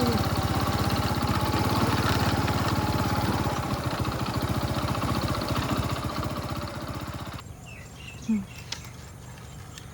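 A small engine running steadily with a fast, even putter, which stops abruptly about seven seconds in, leaving a quieter background.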